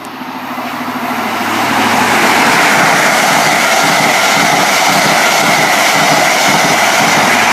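Train passing at speed, its wheel and rail noise swelling over the first two seconds and then holding loud and steady.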